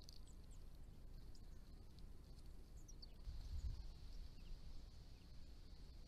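Faint outdoor ambience with scattered thin, high chirps of small birds. About three seconds in, a steady high-pitched insect drone sets in, with a brief low rumble at the same moment.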